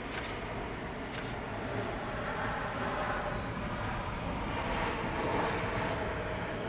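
Embraer E190's turbofan jet engines running as the airliner comes in to land, a steady jet noise slowly growing louder. Two sharp clicks sound within the first second and a half.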